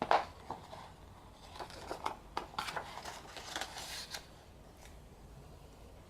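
Paper handling: a photobook being leafed through, with a sharp knock right at the start and a run of light page rustles and clicks over the next few seconds.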